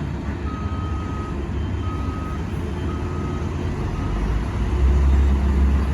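Truck's reversing alarm beeping about once a second, four beeps, over the heavy rumble of diesel engines, which grows louder near the end.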